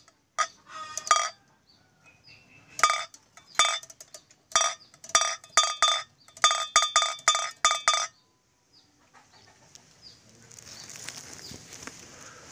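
Bamboo otok-otok (kretekan) kite clacker clacking with sharp, ringing knocks of the same pitch. They come irregularly at first, then quicken to about three or four a second, and stop about eight seconds in.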